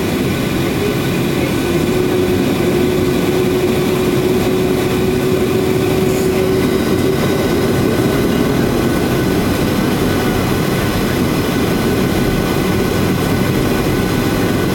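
Steady jet-engine and airflow drone heard inside the cabin of a Boeing 737-800 with CFM56 turbofans. A faint hum holds one pitch through the middle of the stretch.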